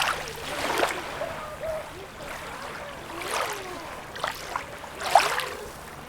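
Sea water lapping and splashing at the shore in small irregular surges, one every second or two, with trickling and gurgling in between.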